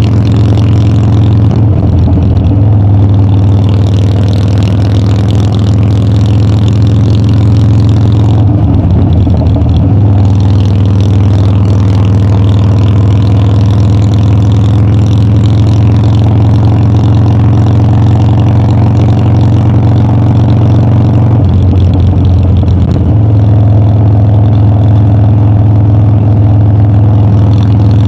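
Harley-Davidson Dyna's V-twin engine running steadily on the road, with three brief changes in its note: about two seconds in, about nine seconds in, and about twenty-two seconds in.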